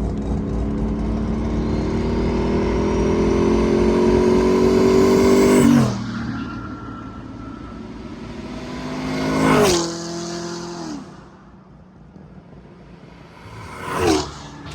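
Twin-turbo Camaro accelerating hard, its engine pitch climbing for about six seconds before the throttle is cut with a sharp whoosh. Two shorter surges of engine noise follow, each dropping off quickly.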